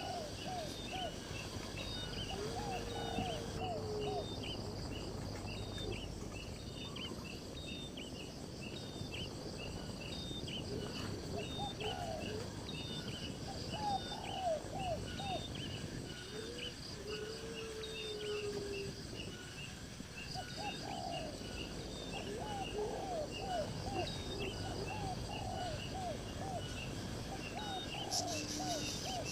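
Birds and insects calling: a steady run of short high chirps repeating a little faster than once a second, with bursts of lower arched call notes several times and two long held lower notes.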